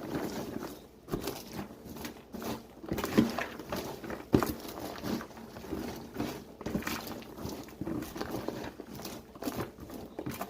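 Coated popcorn being stirred and tossed in a mixing bowl, with irregular rustling and light crunching as the kernels shift.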